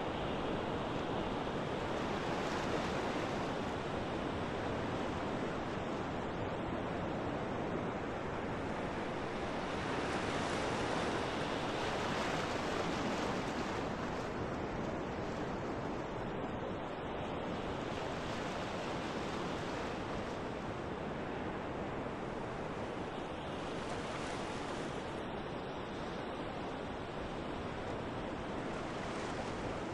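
Wind blowing steadily together with rushing water, an unbroken wash of noise that swells a little about ten seconds in.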